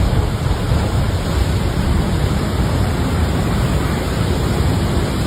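Steady, loud rushing of water.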